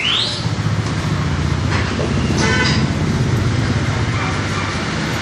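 Steady low hum of a motor-driven wheel repair machine running, with a rising whine in the first half second and a short burst of hiss about two and a half seconds in.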